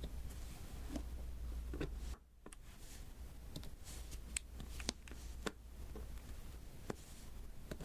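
Small sharp clicks and taps of a diamond-painting pen pressing resin drills onto the sticky canvas, coming one at a time at irregular spacing, with faint rustling between them.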